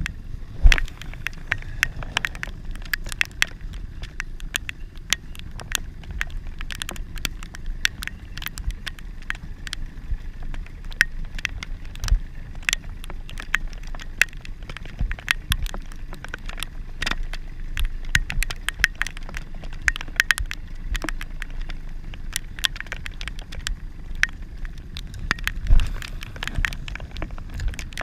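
Heavy rain striking the action camera's housing in dense, irregular ticks over a steady low rumble, with two louder knocks, one about a second in and one near the end.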